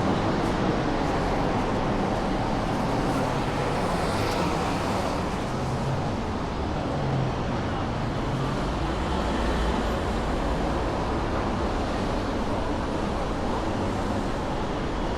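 Steady city street ambience of road traffic, with a low engine hum from passing vehicles in the middle.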